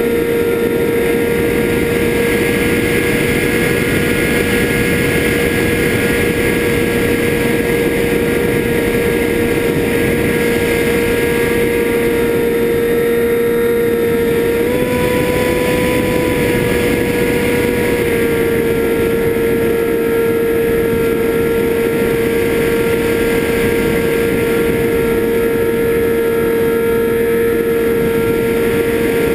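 FPV drone's electric motors and propellers whining at a near-constant pitch over a steady noisy rush, the pitch stepping up briefly about halfway through and then settling back.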